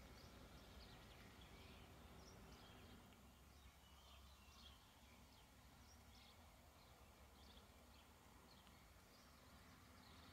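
Near silence with faint birds chirping in short, scattered calls over a low, steady background hum.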